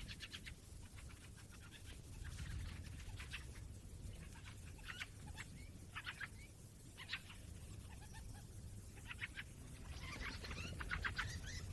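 European goldfinch twittering: bouts of quick, high chirps and buzzy notes, coming every second or two and busiest near the end, over a low steady rumble.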